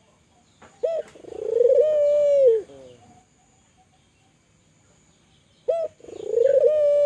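Spotted dove (tekukur) cooing: two calls about five seconds apart, each a short opening note followed by a long held coo that drops in pitch at the end.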